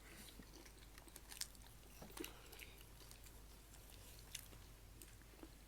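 Faint, close-up chewing of pani puri, with a few soft crunches scattered through.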